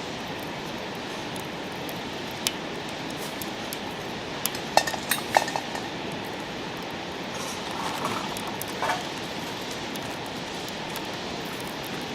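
Metal utensils clinking against metal cookware: a quick run of sharp, ringing clinks about five seconds in, a few softer ones a few seconds later and one more near the end, over a steady rushing background hiss.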